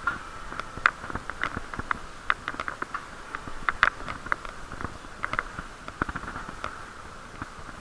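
Muffled riding noise picked up through an action camera's waterproof case on a cyclist's chest: a steady dull rush with many irregular sharp clicks and taps, the case knocking and rattling as the bike rides along.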